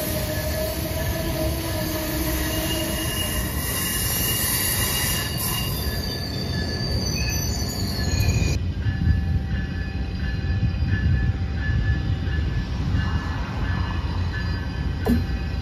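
Passenger train moving through a station, its wheels squealing on the rails over a heavy low rumble. The squeal stops abruptly a little past halfway and the rumble goes on.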